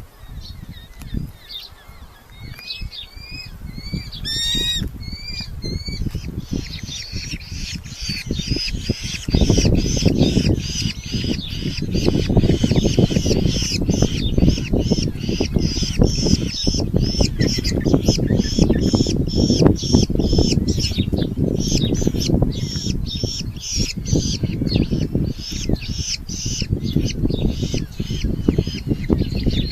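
Red-footed falcon chicks squawking in the nest box. A few arching call notes come first, then a long, rapid run of repeated harsh calls from about six seconds in. Under the calls, from about a third of the way in, there is a heavy low rumble of knocking and rustling in the box.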